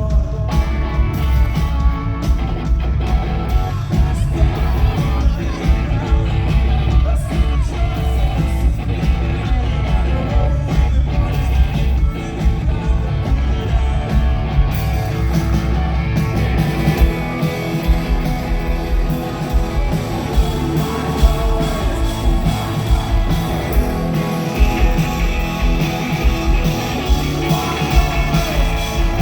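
Live rock band playing loudly, with electric guitars, heavy bass and drums under a sung vocal.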